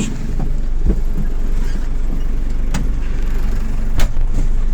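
Diesel engine of a JCB 3CX backhoe loader idling with a steady low rumble, with a few sharp clicks, the loudest about four seconds in.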